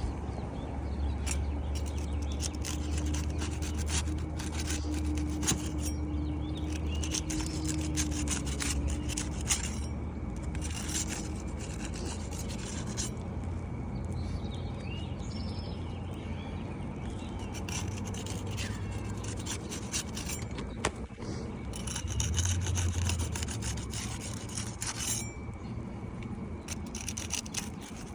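Asphalt 3-tab roofing shingles being worked loose by hand: repeated rough scraping and rasping strokes as the tabs are pried up and rubbed against each other. A steady low hum runs underneath.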